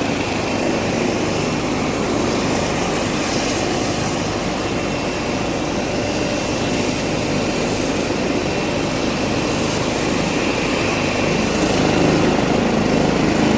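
Helicopter engine and rotor running at high power on the ground just before lift-off: a loud, steady roar with a high whine held on top.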